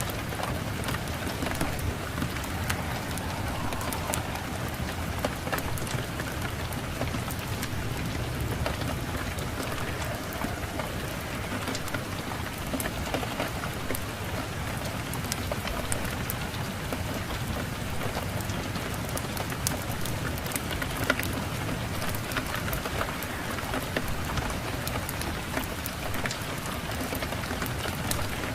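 Steady rain falling, with many small sharp clicks scattered through it and a low rumble underneath.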